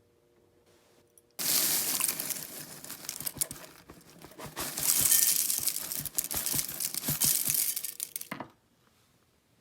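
Paper or plastic wrapping crinkling and rustling as it is handled, with many small clicks and crackles. It starts abruptly about a second and a half in and stops near the end.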